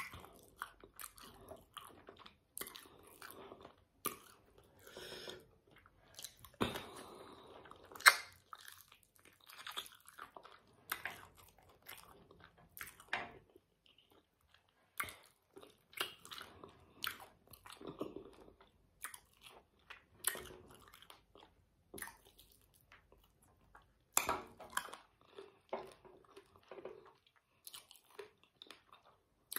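Close-up chewing and crunching of spicy chicken feet: irregular wet bites and crackles of skin and cartilage, with one sharper crunch about eight seconds in.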